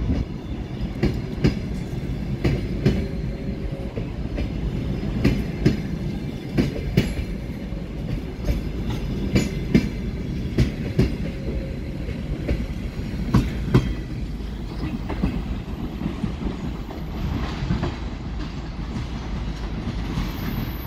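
Passenger coaches of a departing train rolling past, their wheels clacking irregularly over rail joints above a steady low rumble.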